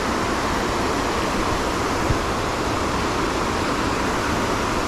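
Steady, loud rush of flowing water, with one brief knock about two seconds in.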